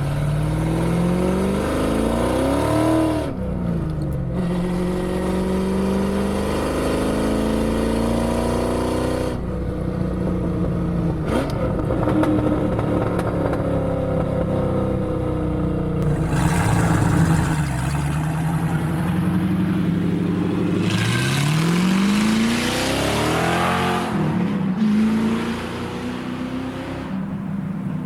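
Fox-body Mustang's 5.0 V8 running through a catless 2.5-inch H-pipe exhaust under acceleration: the engine note climbs for about three seconds and drops sharply, twice, with steadier running between.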